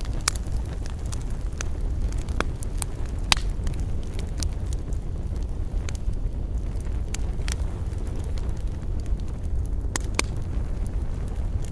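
Wood campfire crackling, with irregular sharp pops and snaps over a steady low rumble; the loudest pop comes about a third of the way in, and two more close together near the end.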